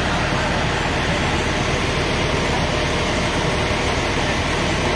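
A vehicle engine idles steadily: a constant low hum under an even noise that does not change.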